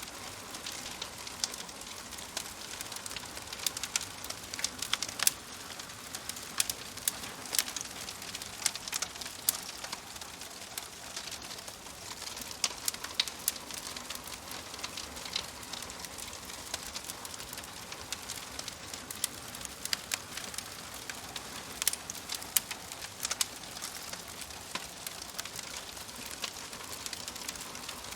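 Wood fire crackling in a fireplace: a steady soft hiss with frequent sharp irregular pops and snaps.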